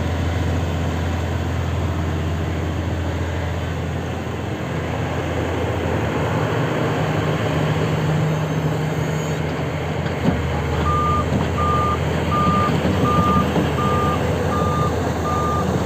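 Large Sany 500H hydraulic excavator's diesel engine running steadily, its tone shifting partway through as it works. After about eleven seconds a motion alarm starts beeping steadily, about one and a half beeps a second.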